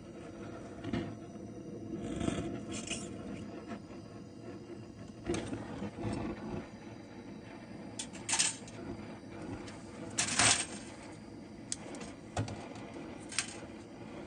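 Irregular metallic clinks and scrapes of tools and parts being handled during refrigerator compressor work, over a steady low hum. The loudest clatters come about eight and ten seconds in.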